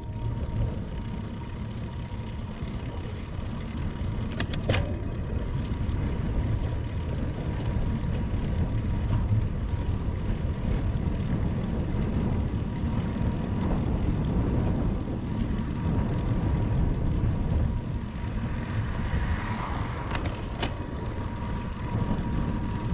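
Ride noise from a bicycle-mounted camera while cycling on a road: a steady low rumble of wind on the microphone and tyres on tarmac, with a faint steady high tone running under it. Two sharp clicks stand out, about five seconds in and near the end.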